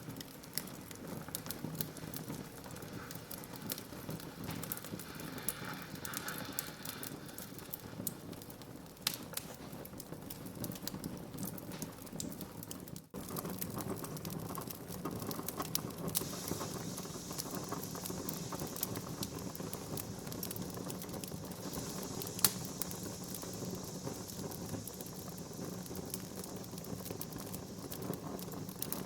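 Wood fire burning in a fireplace, crackling steadily with many small pops over a low steady rush. One sharp, loud pop stands out about two-thirds of the way through, and the sound drops out for an instant near the middle.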